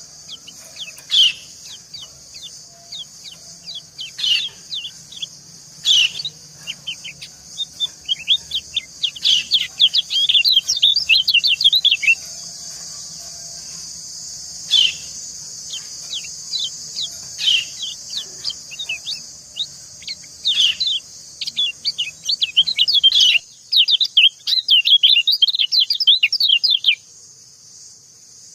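White-eyes calling: single sharp down-slurred 'ciak' chirps every couple of seconds, the female's calls, answered by fast twittering song in two long bursts, about 8 seconds in and again near the end. A steady high hiss runs underneath and stops abruptly shortly before the end.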